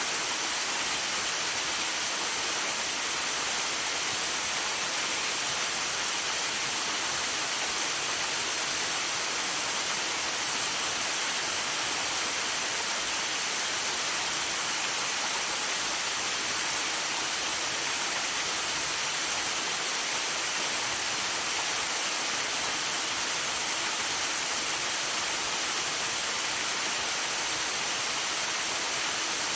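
Waterfall rushing steadily as an even, unbroken hiss, heard through a phone's built-in microphone.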